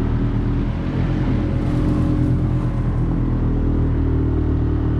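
Boat motor running steadily at low speed, with a brief rush of hiss between about one and a half and three seconds in.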